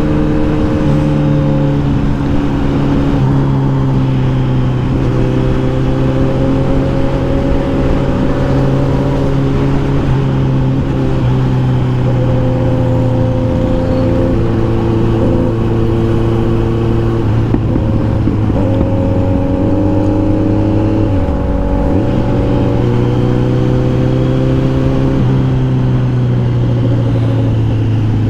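Kawasaki Z900's inline-four engine running under way at fairly steady riding revs, its pitch stepping and drifting a little with the throttle. About 21 seconds in the revs drop briefly, then pick back up.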